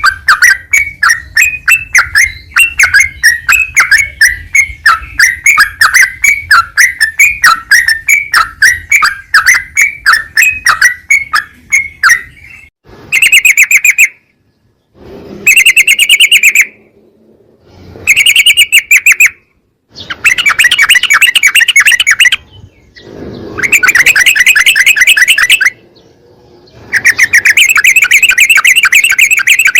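Yellow-vented bulbul (trucukan) song on a bird-training recording. First a quick, continuous run of chattering notes for about twelve seconds, then six short bursts of rapid trilling, each cut off abruptly by a silent gap.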